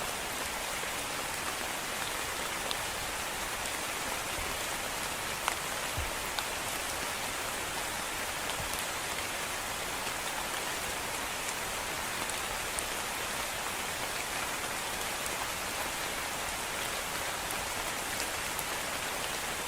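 Steady rain falling, an even hiss with a few sharp ticks here and there.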